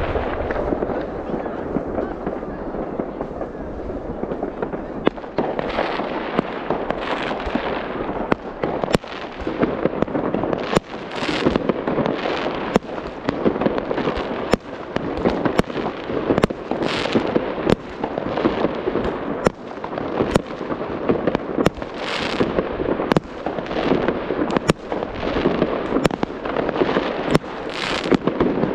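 Fireworks going off continuously: a rapid series of sharp bangs over steady crackling, with repeated rising whooshes of rockets launching.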